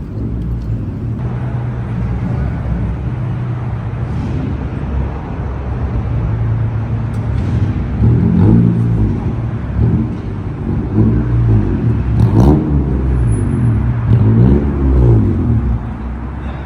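Car engines running, then an engine revved up and down over and over from about halfway through.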